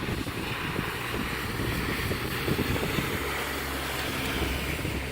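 Jet aircraft engines running, a steady rushing hiss over a low rumble that grows a little stronger about three seconds in.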